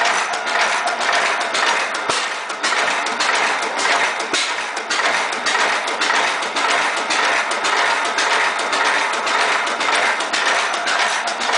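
15 HP Witte single-cylinder hit-and-miss engine running, a steady rapid clatter.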